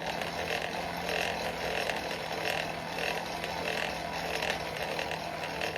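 Coal forge's air blower running steadily, a constant rush of air with a low hum, as it blows the fire to bring a fluxed chain link up to welding heat.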